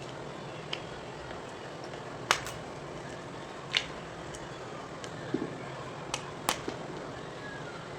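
Gym chalk being twisted and crunched by hand: about seven sharp, crisp cracks at irregular intervals over a steady hiss, the loudest a little over two seconds in.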